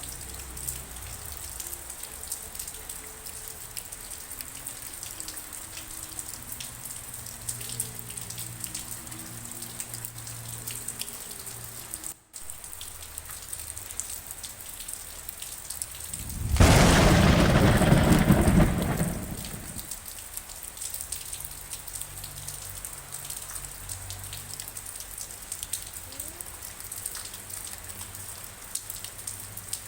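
Steady rain falling, with a loud clap of thunder about halfway through that rumbles for around three seconds and then fades. The sound cuts out for an instant shortly before it, and faint low steady tones sit under the rain.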